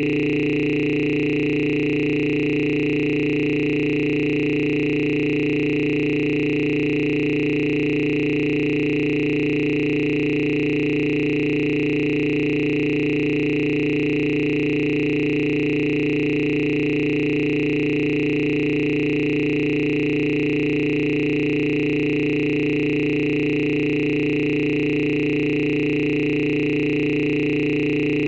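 A steady electronic drone of several held tones, low and high together, unchanging throughout.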